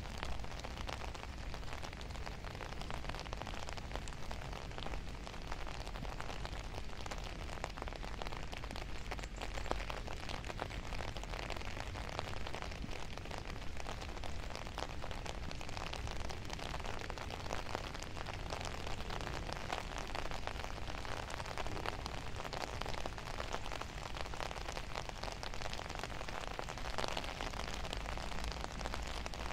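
Steady rain falling, with many small separate drop hits through a continuous patter.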